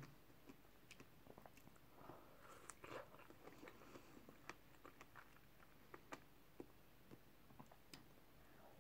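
Faint close-up chewing of a strawberry, with small wet mouth clicks and smacks scattered throughout. There is no crunch: the strawberry is soft.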